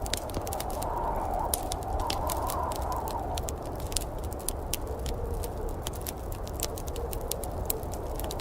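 Wood fire in a fireplace crackling, with frequent sharp pops over a steady low rumble.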